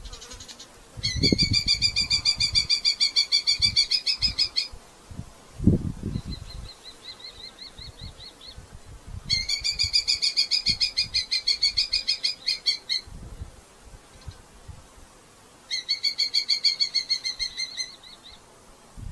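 A red-footed falcon calling in three long bouts of rapid, evenly repeated shrill notes, about ten a second. A fainter short bout comes between the first two. Two low thumps come in the first six seconds.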